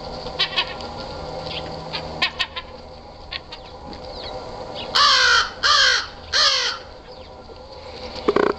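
Gulls calling while feeding, with three loud, harsh calls in quick succession about five seconds in. Softer calls and short sharp sounds come and go around them.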